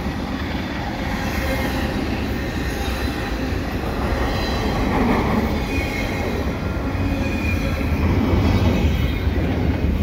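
Double-stack intermodal well cars rolling past at speed: a steady rumble of steel wheels on rail, with a faint thin wheel squeal above it.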